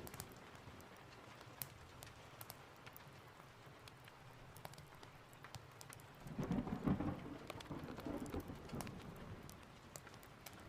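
Steady rain with scattered sharp ticks, and a roll of thunder rumbling up about six seconds in and fading over the next few seconds.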